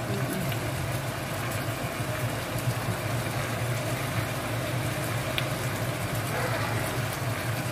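Chicken pieces sizzling in a hot pan, over a steady low hum.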